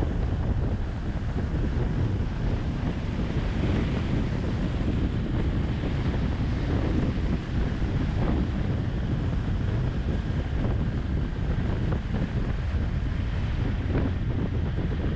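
Wind buffeting the microphone of a camera on a moving motorcycle, a steady low rumbling rush of air.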